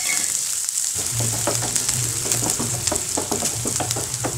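Chopped onions and curry leaves sizzling in hot oil in a nonstick frying pan, with a steady high hiss. From about a second in, a wooden spatula scrapes and taps the pan as they are stirred.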